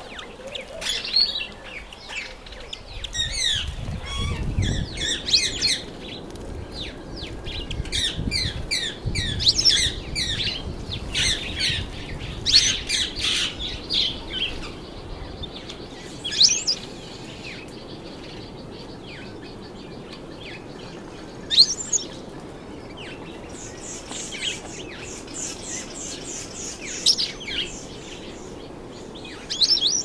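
Small songbirds chirping and twittering in quick runs, thick over the first half and then in scattered bursts, with a low rumble through the first half.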